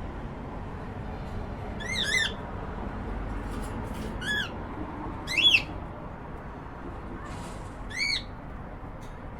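Cockatiel giving short, arched chirping calls: a quick double call about two seconds in, then single calls, the loudest about halfway through.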